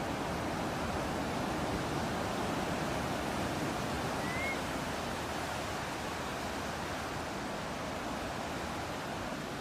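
Ocean surf and breeze: a steady, even wash of noise with no breaks. One short rising bird chirp sounds about four seconds in.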